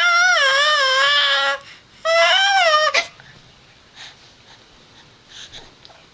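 A 4-month-old baby squealing: two long, high-pitched squeals with a wavering pitch, the first lasting about a second and a half, the second about a second, followed by quiet small sounds.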